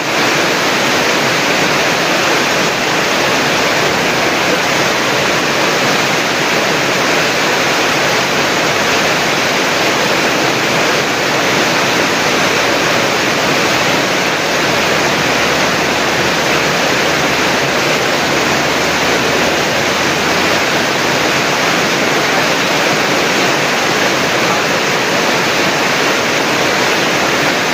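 Steady loud rush of fast-flowing water from a river running high and fast after heavy rain.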